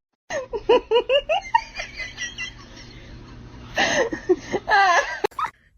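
A person laughing: a quick run of short giggles about a second in, then another burst of laughter near the end.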